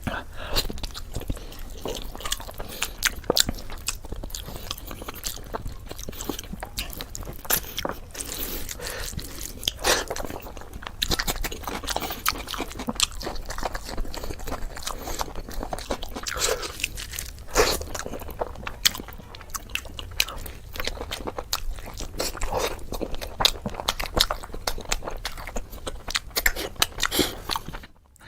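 Close-miked eating of rice pulao and mutton curry: steady chewing with many small sharp mouth clicks and wet crunchy bites.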